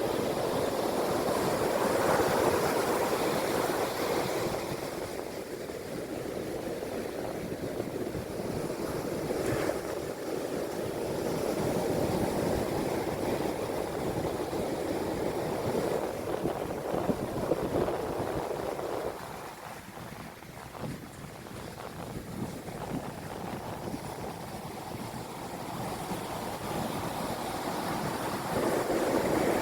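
Sea waves breaking and washing in, the surf swelling and easing in turn, quietest about two-thirds through before building again near the end.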